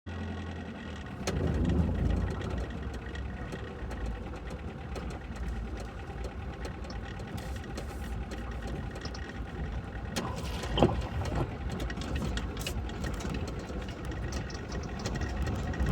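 A car's engine and road noise while driving on a wet road in rain: a steady low rumble with scattered small ticks, and a louder knock about eleven seconds in.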